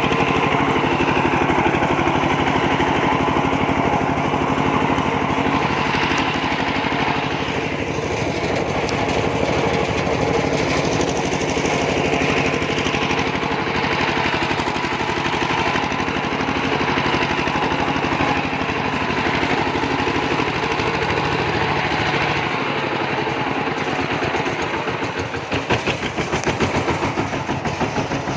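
Kubota RT140 single-cylinder diesel engine of a two-wheel tractor running steadily with a fast, even chugging beat. Near the end the beat turns slower and more distinctly pulsing.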